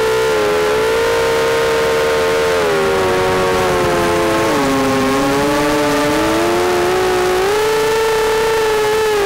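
ZMR250 racing quadcopter's brushless motors and propellers whining. The pitch sinks through the middle as the motors slow, then climbs back near the end.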